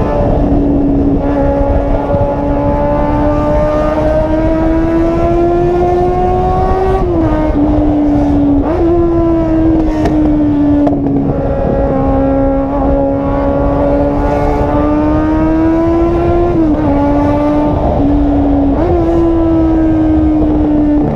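Volkswagen Jetta's engine and exhaust running loudly under way: a steady drone that slowly rises and falls in pitch, with sudden drops and jumps a few times, like gear changes.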